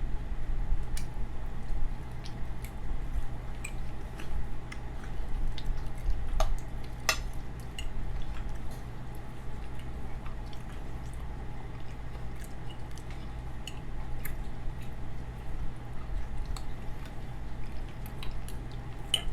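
Close-miked eating: soft, wet chewing of pot roast and vegetables with occasional light clicks of a fork against the plate, over a steady low hum.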